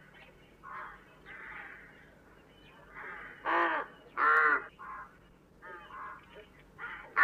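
Rooks cawing: two loud caws about halfway through and another as it ends, with fainter caws in between.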